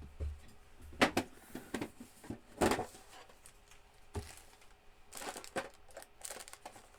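Plastic alcohol-ink markers being picked through and handled: a few sharp clicks and knocks, the loudest near the middle, then a short rattling clatter near the end.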